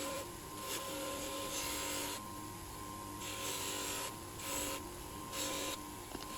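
Hand rasping strokes, an abrasive tool worked back and forth on a part: five or six separate strokes, each up to about a second long, with short pauses between.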